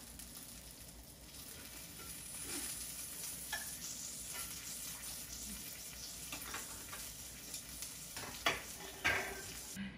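Food sizzling steadily in a pot on an induction cooktop, with a few light clicks of chopsticks and utensils against dishes, two of them close together near the end.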